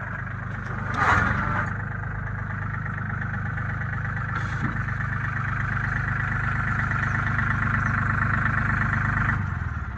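A vehicle engine running steadily. It has a short louder burst about a second in, builds slightly, then cuts off sharply near the end.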